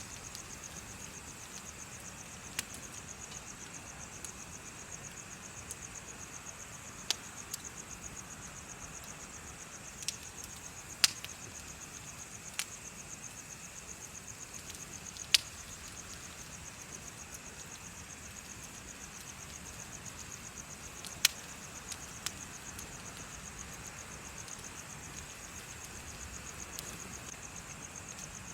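Bonfire crackling, with sharp pops every few seconds, the loudest about a third, half and three quarters of the way through. Behind them, insects chirp in a steady, fast, high trill.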